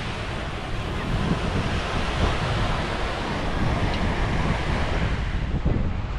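Ocean surf washing onto the shore in a steady rush, with wind buffeting the microphone.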